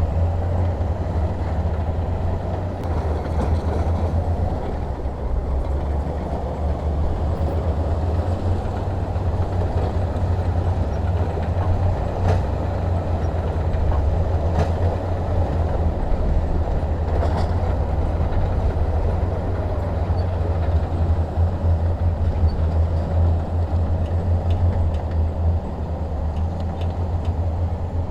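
Heavy diesel machinery running steadily, a deep continuous engine rumble with a few faint clanks in the middle.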